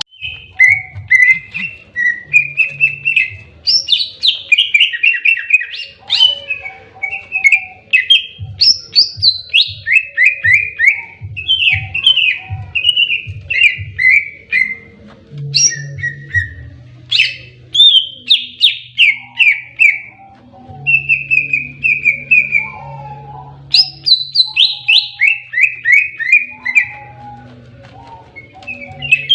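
Green leafbird (cucak ijo) singing non-stop in its aggressive 'fighting' song: loud, rapid chattering phrases, many of them quick runs of falling notes, with hardly a pause.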